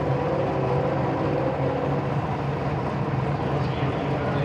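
An engine running steadily at an unchanging speed, a low hum with higher tones that fade about two seconds in.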